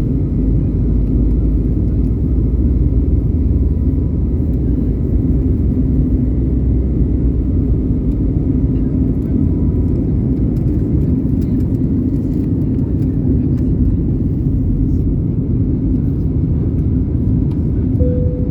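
Airliner taking off: a loud, steady engine and rolling rumble with a faint thin whine running through it. A short single tone sounds near the end.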